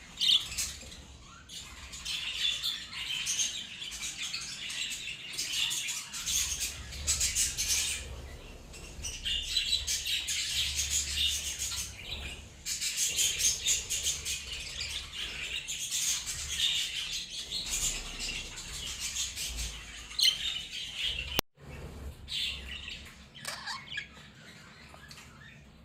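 Budgerigars chattering in a flock: a dense, continuous run of chirps and warbles, with a brief break about three quarters of the way through, after which the chirping is quieter.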